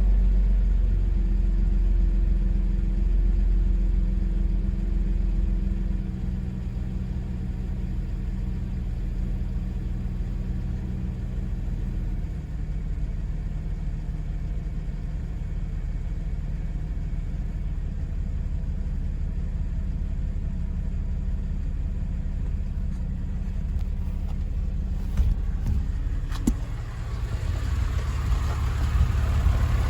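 2002 Porsche 911 Carrera's water-cooled 3.6-litre flat-six idling during warm-up after a cold start. The fast idle settles lower in two steps, about six and twelve seconds in. A couple of clicks come near the end, and the engine gets louder in the last few seconds.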